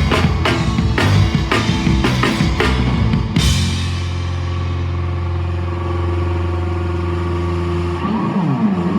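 Live rock band with drums, distorted guitars and bass. The drums pound steadily for about three seconds, then one big crash, and the band holds a final chord that rings on. Near the end a note bends down and back up.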